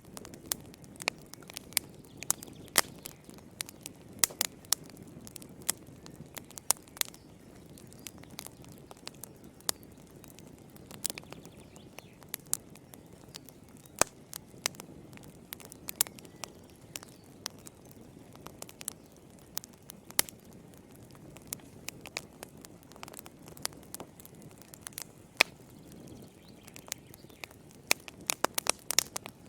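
Wood fire burning in a fireplace: irregular sharp crackles and pops from the burning logs over a soft low rumble of the flames, with a quick flurry of pops near the end.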